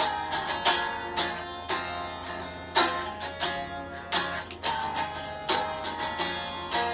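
Semi-acoustic guitar played unplugged, chords struck about twice a second and left to ring, an instrumental passage with no voice.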